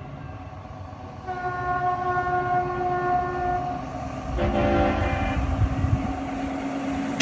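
Truck air horns of the train-horn type sounding a chord: one long multi-tone blast of about two seconds, then a shorter blast at a different, lower pitch about a second later, over the rumble of running diesel truck engines.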